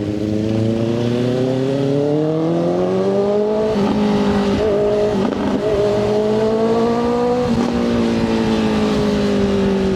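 Motorcycle engine accelerating, its pitch climbing steadily for about four seconds. Brief breaks in the note near the middle and again about seven and a half seconds in, as gears are shifted, then it runs on with the pitch easing slightly down.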